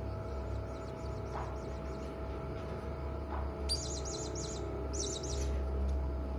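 Serindit hanging parrot calling: two quick bursts of rapid, shrill, very high-pitched chirps about four and five seconds in, with fainter chirps before them, over a steady background hum.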